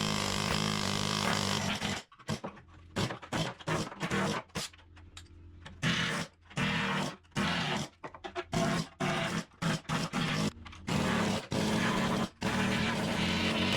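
A power tool breaking stuck concrete out of a steel skid steer bucket, running steadily at first, then in many short bursts that stop and start abruptly, then steadily again near the end.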